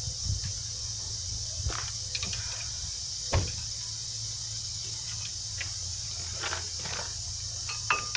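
Scattered light clicks and knocks of hand tools and metal brake parts being handled while a brake caliper is fitted, with one sharper knock about a third of the way in, over a steady low hum.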